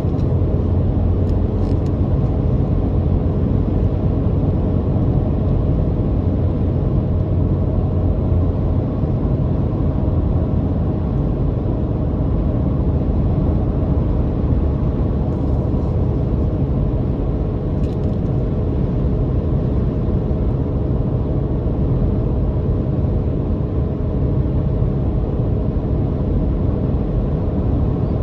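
Car engine droning steadily at an even speed, with the low rush of road and tyre noise underneath.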